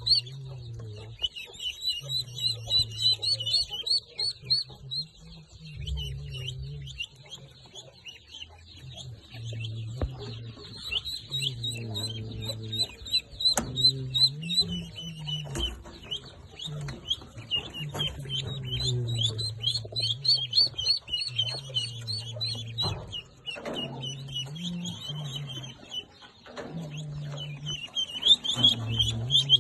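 Many baby birds peeping at once: a dense, continuous chorus of rapid, high, falling peeps, with a low hum coming and going underneath.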